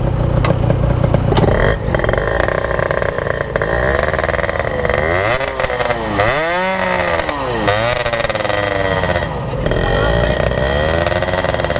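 Two-stroke motorcycle engine running and being revved up and down in slow swells. The riders take it for a torn reed valve petal, with a holed piston as the other suspect.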